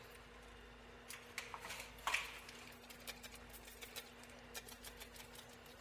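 Scattered light clicks and taps of small objects being handled, the loudest just after two seconds in, over a steady low electrical hum.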